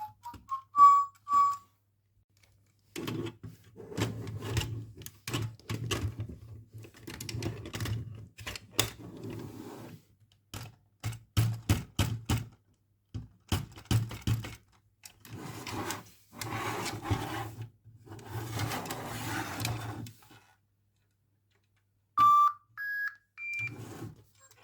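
Toy packaging and plastic parts handled at close range: rustling with many clicks and taps. Near the end, three short electronic beeps rising in pitch, like an electronic toy switching on.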